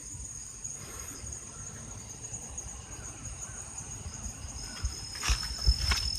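Insects trilling steadily at a high pitch over a low outdoor rumble, with a few sharp knocks or steps near the end.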